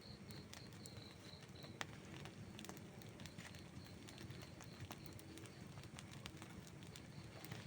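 Burning wood crackling faintly, with scattered sharp pops, the strongest about two seconds in, over a low steady rumble of the fire. A faint, evenly pulsed high chirp runs near the start and again near the end.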